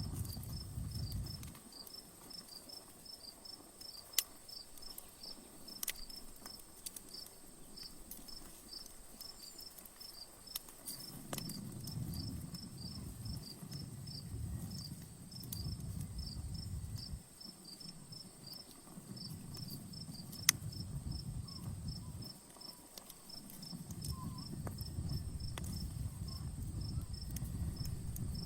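Outdoor campfire crackling, with a handful of sharp pops, the loudest about four seconds in and again near twenty seconds. Behind it a cricket chirps steadily at a few chirps a second, and a low rumble comes and goes in long swells.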